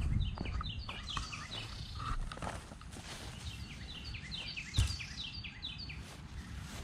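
A bird singing two bouts of quick, repeated, falling chirps over a low rumble, with a single thump about five seconds in.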